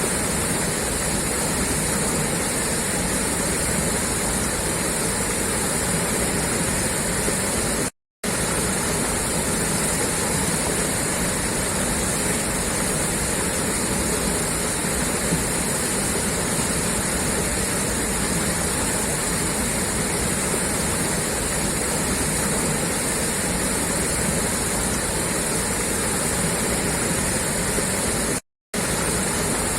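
Water pouring steadily out of a pipe, a constant gushing rush. It cuts to silence for a split second twice.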